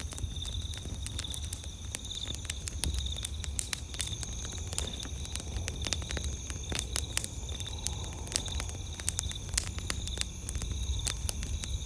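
Wood campfire crackling, with dense irregular pops and snaps, over a steady pulsing chirp of night insects.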